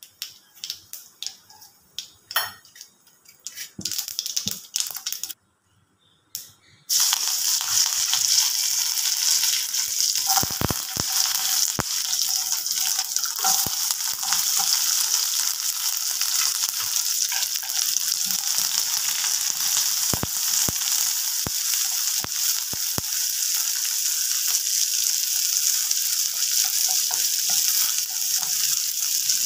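Mustard seeds popping one by one in hot oil in a steel kadai. About seven seconds in, a loud sizzle starts suddenly as curry leaves and sliced shallots go into the oil, and it keeps frying steadily, with a few clicks from stirring.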